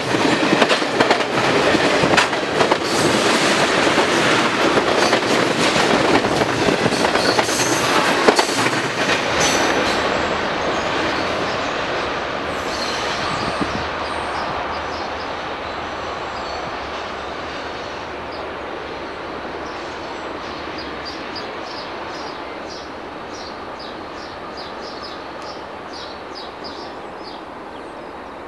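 Freight train cars rolling past with wheels clattering over the rail joints. The tail of the train then moves away, and the rumble fades steadily over the second half.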